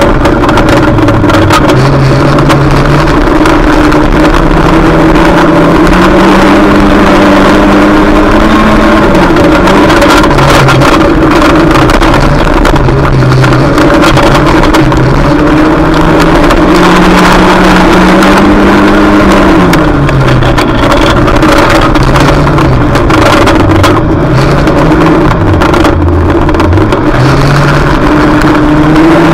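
Junior banger race car's engine running hard and loud, its revs climbing, holding and dropping back several times, with small steps like gear changes in between.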